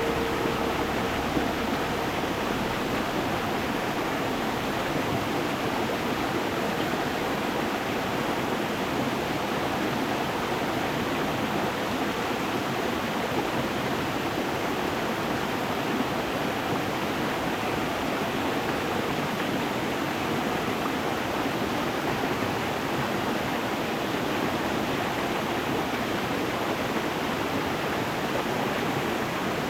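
Stream water rushing steadily over stones, an even, continuous rushing sound.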